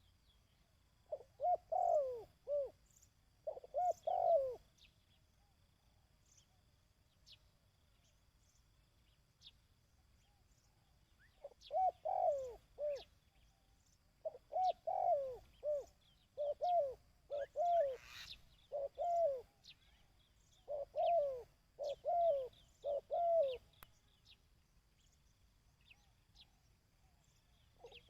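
Dove cooing in short repeated phrases of two to four coos, the 'kích bổi' call used to train decoy doves: two phrases near the start, a pause of several seconds, then a long run of phrases. Faint high chirps from small birds sound above.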